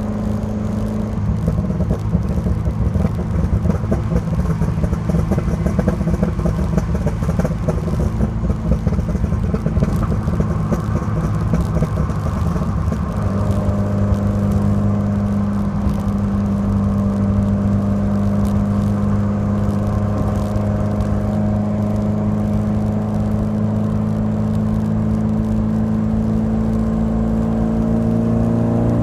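Alfa Romeo Alfasud Sprint QV's 1.5-litre flat-four boxer engine running through its stainless-steel exhaust. The note wavers and shifts through about the first dozen seconds, then settles into an even, steady hum. Its pitch begins to climb near the end.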